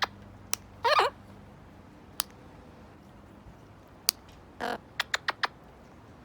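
Quaker parrot giving two short squeaky calls, one about a second in and another about four and a half seconds in, between scattered sharp clicks, with a quick run of four clicks near the end.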